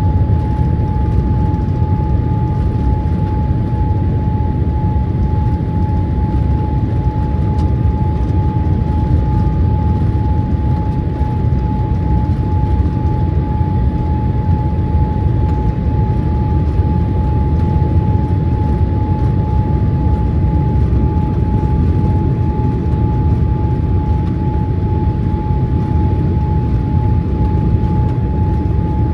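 Boeing 787-8 cabin noise on final approach: a steady low rumble of the engines and airflow, with one steady high whine held throughout.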